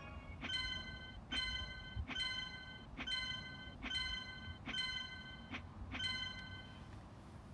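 A bell-like note struck seven times at one pitch, at an even pace a little faster than once a second. Each strike rings briefly.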